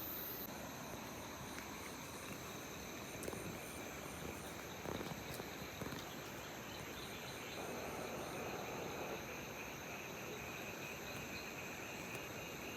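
Outdoor insect chorus: several steady high-pitched trills with a fast repeating chirp above them, over a faint even hiss of flowing water.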